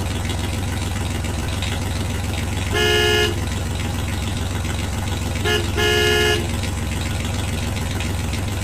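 A vehicle engine runs steadily. A horn sounds three times: one blast about three seconds in, then a short toot followed at once by a longer blast around six seconds.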